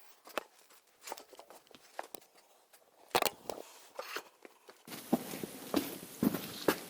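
Footsteps: irregular light steps and knocks, roughly one a second, a little louder from about three seconds in, with a faint hiss behind them in the last couple of seconds.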